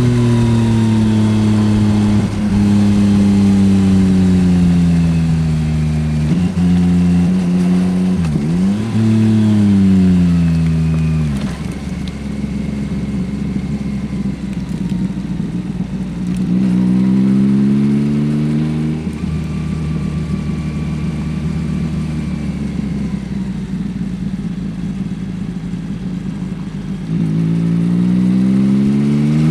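Yamaha XSR900's inline-three engine with an Akrapovič exhaust, heard from the rider's seat under way on a twisty road. Engine speed repeatedly falls off and climbs again, with a few quick drops and pickups early on and quieter low-rev stretches. The revs rise again near the end.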